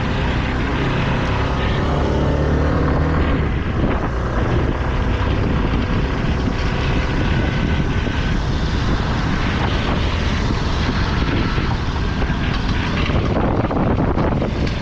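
Motorcycle engine running steadily under way, mixed with strong wind and road noise.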